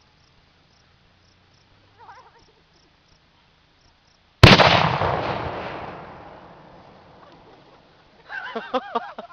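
A single loud explosion about four seconds in: fuel-filled bottles packed into a reindeer figure going off beside a barrel. It opens with a sharp crack and fades away over about three seconds.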